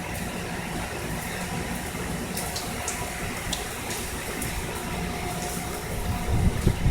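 Steady hurricane rain with running water and scattered drip ticks. Near the end, gusting wind starts buffeting the microphone in rising low rumbles.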